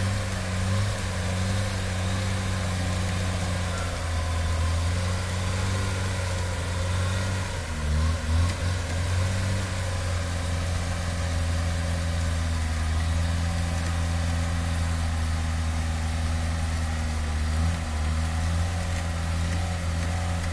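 Lada Niva's engine running at steady, raised revs while the car is bogged in deep mud, dipping and picking up again briefly about 8 seconds in and wavering once more near the end.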